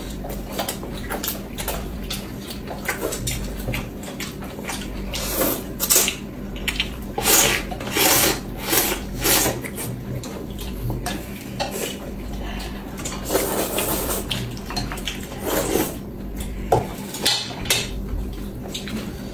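Cutlery and dishes clinking irregularly during a meal, with scattered eating noises.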